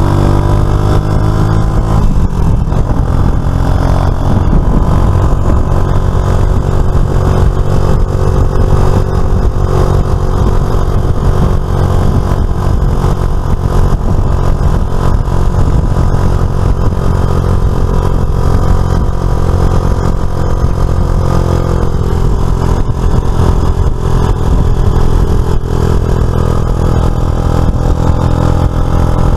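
Suzuki FL125 Address scooter's small single-cylinder engine running on the move, its pitch climbing in the first couple of seconds as it accelerates and then holding fairly steady, with road and wind noise mixed in.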